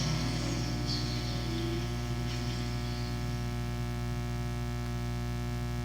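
Steady electrical mains hum on the audio feed. The noise of late-model race cars passing at caution speed fades out over the first couple of seconds.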